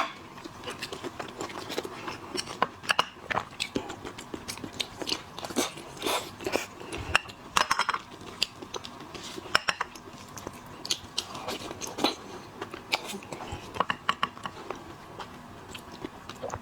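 Close-up eating of shellfish: irregular crunches, cracks and wet chewing and smacking, with sharp clicks scattered throughout.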